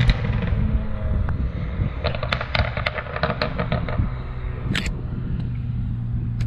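BMW 335i's N54 twin-turbo inline-six through a VRSF straight-pipe race exhaust, dropping off a rev with a string of crackles and pops from the tuned exhaust, then settling into a steady idle.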